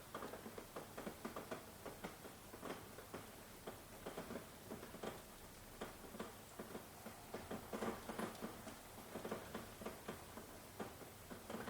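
Rain falling, heard as many irregular drops ticking and pattering over a soft hiss.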